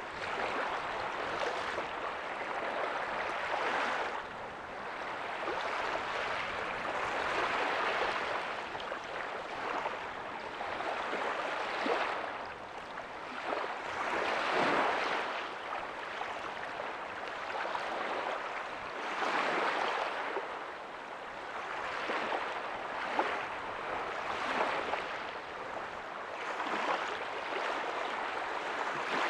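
Ocean waves breaking softly on a beach: a continuous wash of surf that swells every few seconds as each wave comes in and then eases off.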